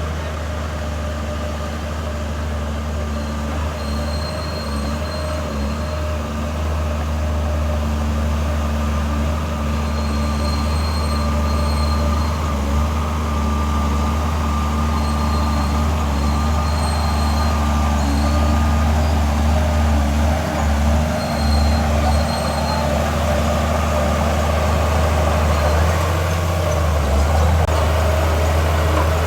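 Heavy diesel earthmoving machinery running steadily under load, a deep engine drone, with short high-pitched squeals coming and going several times.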